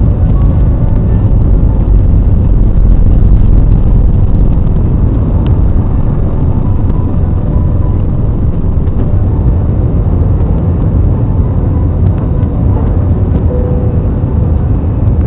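Steady low roar inside an airliner cabin in flight: engine and airflow noise, heaviest in the low rumble.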